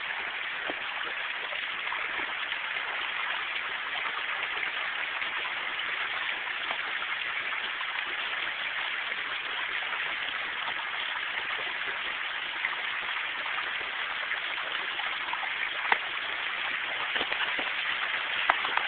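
Waterfall rushing steadily, the constant noise of falling water, with two short sharp clicks near the end.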